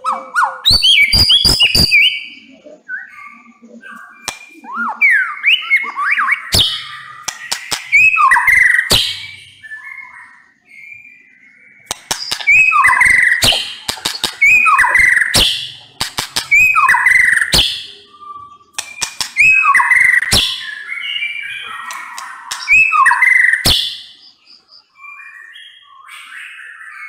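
White-rumped shama singing loudly in repeated phrases of rich whistled notes, many sliding downward, with sharp clicks mixed in.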